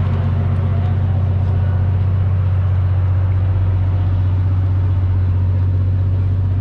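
Car engine idling with a steady low rumble that holds constant throughout.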